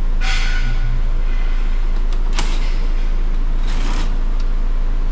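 Hands working on a car door's interior trim: two short scraping rustles and one sharp click about halfway through, over a steady low hum.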